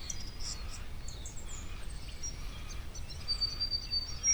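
Wild birds chirping with many short, high notes, one holding a thin, steady whistle for about a second near the end, over a low, steady background rumble.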